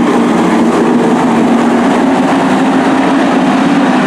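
Race truck engines running together at speed on a short oval, a loud steady drone that rises a little in pitch.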